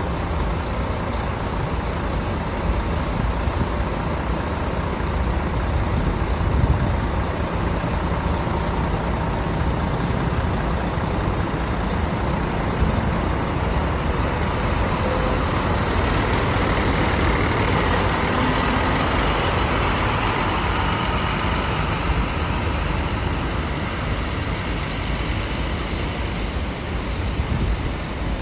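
Scania tour coach's diesel engine running steadily with a low rumble; the sound swells a little about two thirds of the way through.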